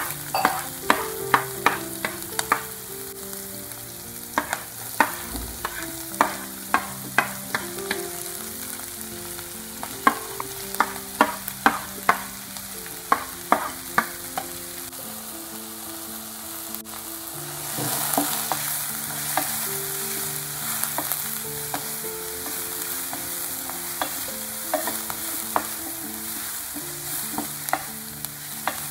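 Chopped onion, cabbage and green vegetables sizzling in hot oil in a frying pan as they are stirred, with sharp clicks of the stirring utensil knocking against the pan in quick runs. The sizzle grows louder about 18 seconds in.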